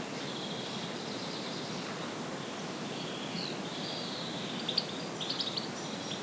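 Rural outdoor ambience: a steady background hiss with faint birds calling, and a quick run of short chirps near the end.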